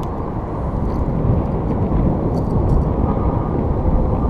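Steady low rumbling noise, with a few faint clicks about halfway through.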